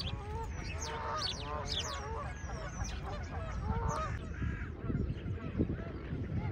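A flock of Canada geese honking over and over, with many short, sharp high calls from other birds mixed in through the first few seconds. Low thuds and rumble come in toward the end.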